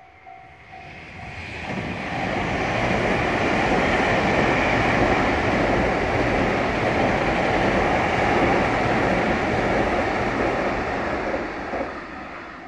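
JR West Special Rapid electric multiple unit passing over a steel girder railway bridge: the rumble of its wheels on the bridge builds over the first two seconds, holds steady, and fades near the end. A short tone repeating about twice a second sounds at the start before the train drowns it out.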